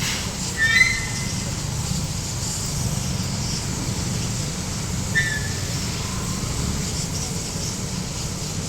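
Motorcycle engine running with a steady low rumble and a hiss of wind or road noise. Two short, high-pitched chirps sound, one about a second in and one about five seconds in.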